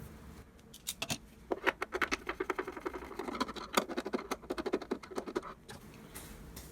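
A screwdriver working a screw out of an espresso machine's casing: a rapid run of small clicks and scrapes for about four seconds, stopping suddenly near the end.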